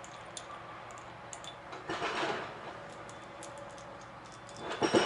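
Scattered light clicks and taps of tools being handled, with a brief rush of noise about two seconds in and a louder sound starting right at the end.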